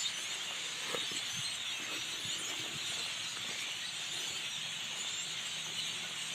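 A dense, steady chorus of many birds chirping at once.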